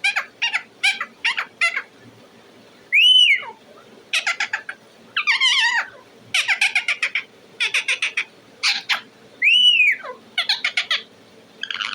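A pet parrot calling: bursts of rapid high chirps and chatter, with two loud whistles that rise and fall, one about three seconds in and one near ten seconds.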